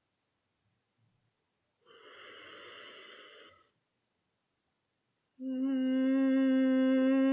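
A woman takes an audible breath, then about five seconds in sings one low note in chest voice, held dead straight with no vibrato.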